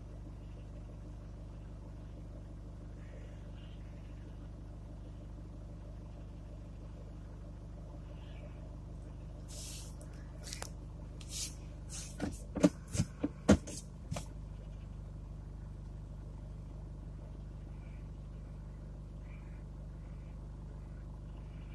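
Car engine idling steadily, heard from inside the cabin. About ten to fourteen seconds in comes a cluster of sharp clicks and knocks.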